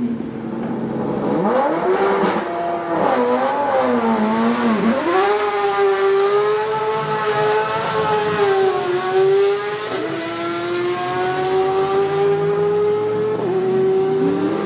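Nissan 370Z's 3.7-litre V6 pulling away from low revs, rising and falling in pitch a few times, then running at fairly steady revs. The pitch drops suddenly about ten seconds in and again near the end as it shifts up, then climbs again.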